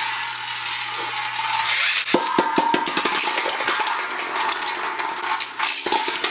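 Beyblade spinning tops whirring in a stadium with a steady hiss. From about two seconds in come rapid clacking collisions as they battle.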